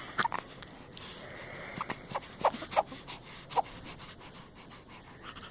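A baby's quiet breathing and small mouth noises, with a few short, faint squeaks and clicks between louder coos.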